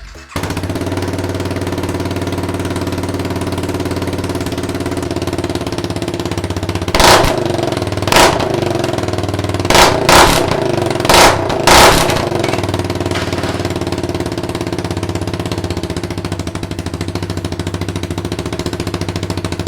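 Honda CRF250L's 250cc single-cylinder four-stroke engine idling steadily on its stock exhaust, blipped through six short revs about seven to twelve seconds in, then settling back to idle.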